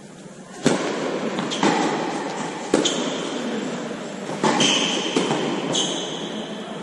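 Tennis rally: sharp racket strikes and ball bounces, roughly one a second, each ringing on with an echo, with short high squeaks between shots.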